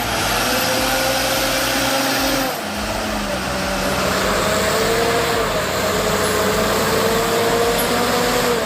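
Heavy machinery engine running steadily with a constant hum and a noisy mechanical wash; the sound changes abruptly about two and a half seconds in to another steadily running machine.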